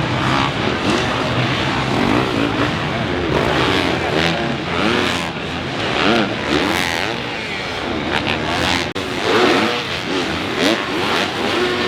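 Several dirt bike engines revving up and down, the rising and falling pitches overlapping as bikes accelerate and back off around the track.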